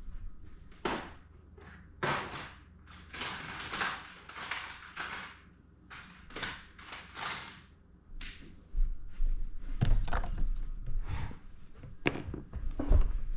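Rummaging for a tool on a workbench: a run of short rustling and clattering handling noises, with a few dull knocks in the last few seconds.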